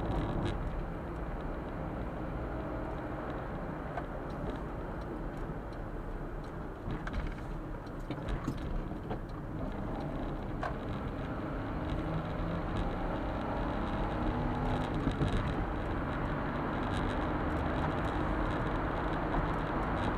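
Suzuki Super Carry kei truck heard from inside the cab while driving: its small three-cylinder engine runs steadily under the road and tyre noise, its pitch drifting up and down. A few light knocks come around the middle.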